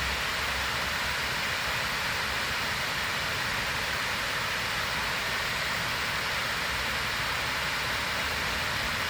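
Water from an ornamental waterfall fountain pouring and splashing down into its pool, a steady, unbroken rush.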